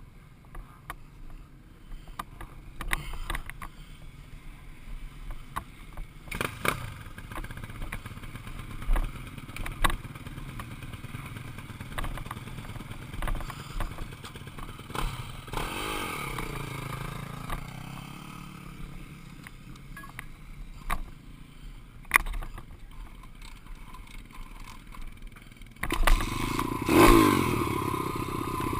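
Dirt bike engine running while riding, with scattered knocks and rattles. The engine note rises and falls midway, then gets much louder for the last few seconds.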